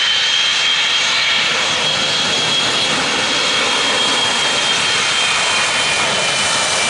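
Boeing KC-135 Stratotanker's jet engines running at high power for takeoff: a loud, steady roar with a high whine held above it.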